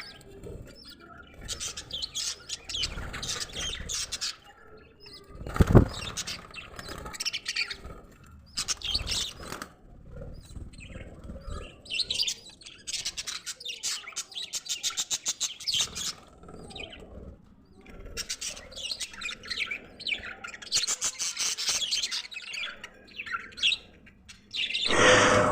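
Budgerigars chattering, a fast run of high chirps and warbles that comes in clusters and lulls. There is a sharp thump about six seconds in and a loud rustling burst near the end.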